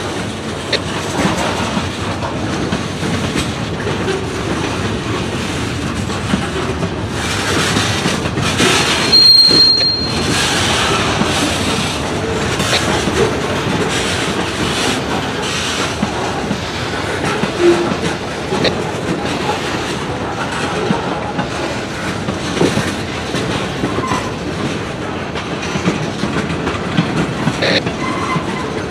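Freight train cars rolling past, wheels clicking over the rail joints, with a brief high wheel squeal about nine seconds in.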